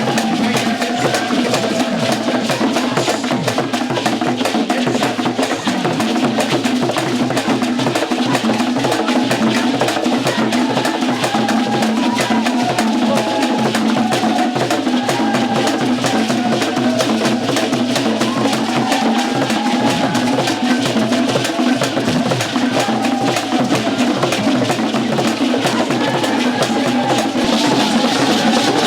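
Loud percussion-led music: dense, fast drumming with a wavering melody line carried over it.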